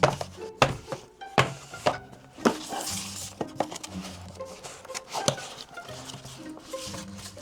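Sharp metallic clinks and knocks, about half a dozen and mostly in the first half, from hand tools and parts being handled, over background music with held tones.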